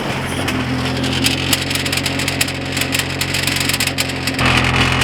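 Honda Civic wagon's four-cylinder engine idling through a home-made straight-pipe exhaust: a steady, loud drone with irregular sharp ticks over it, growing louder near the end.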